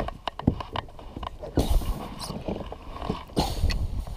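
Handling noise in a kayak: a string of light knocks and clicks, with two louder rushing bursts about a second and a half in and again near the end.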